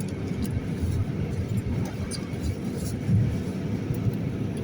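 Steady low rumble inside a Boeing 787-9 cabin as the airliner taxis after landing.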